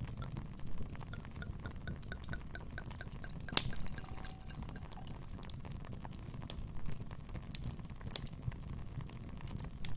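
Wood fire in a fireplace crackling: a steady low rumble of flames with scattered sharp pops, the loudest about three and a half seconds in.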